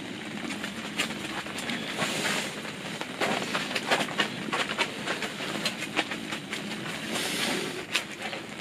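Rain pattering on a tent awning, with a plastic tarp groundsheet crinkling and rustling under a small dog's paws, a louder rustle twice.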